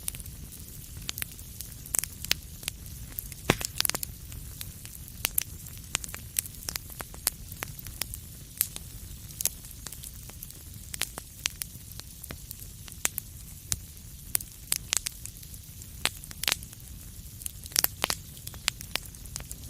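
Wood fire crackling in a fireplace: irregular sharp pops and snaps scattered throughout, over a low steady rumble of the flames.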